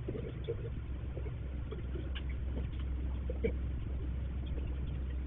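Steady low electrical hum with faint scattered clicks and knocks, heard through a low-quality security camera microphone.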